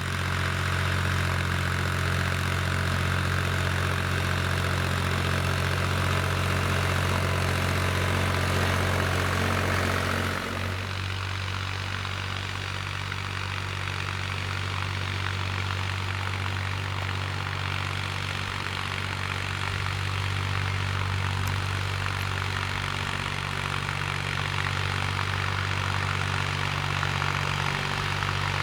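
IHC 353 tractor's three-cylinder diesel running steadily under load while pulling a spring-tine cultivator. About ten seconds in the higher hiss drops away and the sound becomes a little quieter, leaving the low, even engine note.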